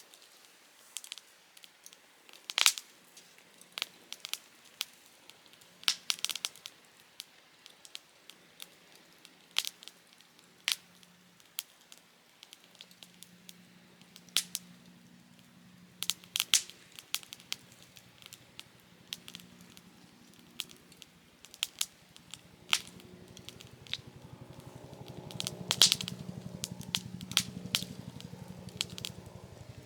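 Softwood campfire crackling in a Picogrill 398 fire stand, with sharp irregular pops from the burning wood. From about halfway in, a low droning hum with a fast pulse builds and gets louder near the end. The uploader suspects it is a passing helicopter.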